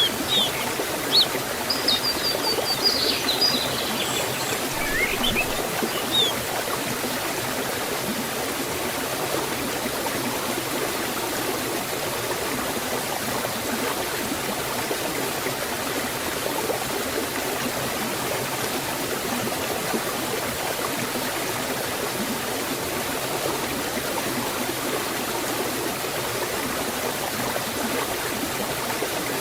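Waterfall water flowing in a steady, even rush. A bird chirps a few times in the first few seconds.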